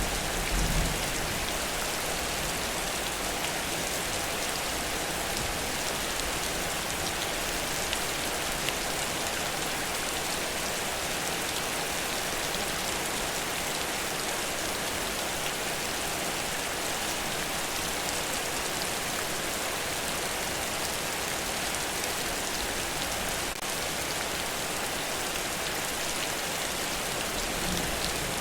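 Heavy rain falling steadily as an even, unbroken hiss. A short low rumble comes about a second in and again near the end.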